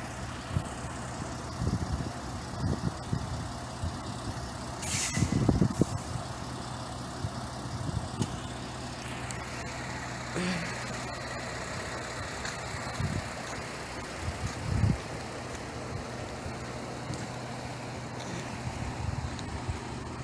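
Semi truck's diesel engine idling steadily, with scattered low thumps and a short burst of air hiss about five seconds in.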